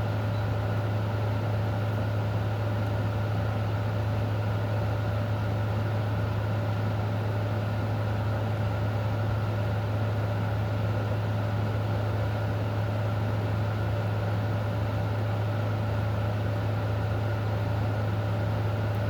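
A steady low machine-like hum with a fainter higher tone, under an even, unchanging hiss.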